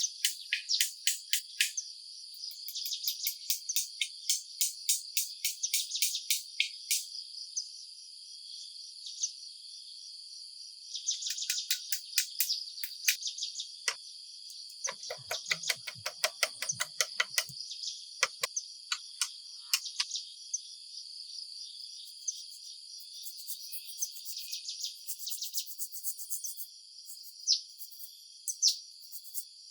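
Crickets or similar insects chirping in quick, evenly repeated pulses over a steady high-pitched drone, coming and going in bouts. About halfway through there is a short run of rattling clicks.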